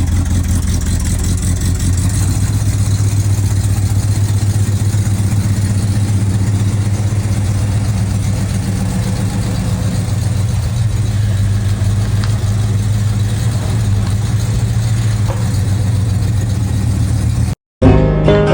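Car engine idling steadily with a low, even rumble; it cuts off abruptly near the end.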